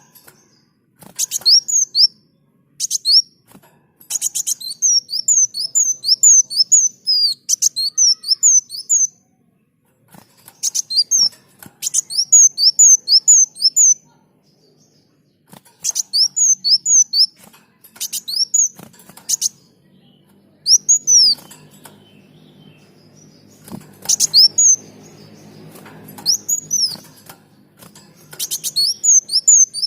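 A kolibri daun (an Indonesian sunbird) singing in quick phrases of thin, high, downward-sweeping chirps, each phrase several notes long with short pauses between them. A faint low hum sits under the song in the second half.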